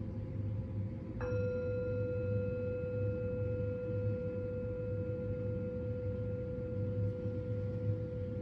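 A metal singing bowl struck once about a second in, then ringing on steadily with a clear main tone and fainter higher overtones. A steady low hum runs underneath.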